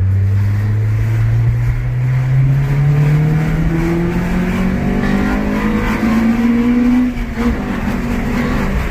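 2003 Acura RSX Type S's four-cylinder engine with a Yonaka cat-back exhaust, accelerating hard. Its pitch climbs steadily up into the VTEC range for about seven seconds, then drops sharply at a gear change and holds steady.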